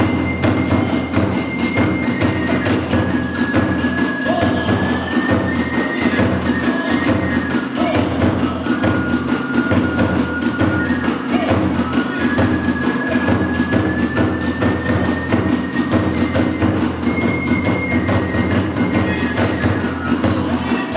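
Kagura hayashi ensemble playing: a bamboo transverse flute holds long high notes over fast, unbroken drum strokes and small hand-cymbal clashes.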